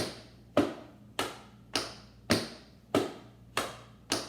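Metal taps on tap shoes striking the floor in a steady run of heel and ball drops, alternating feet in the 'around the world' pattern. There are about eight crisp taps, evenly spaced a little more than half a second apart.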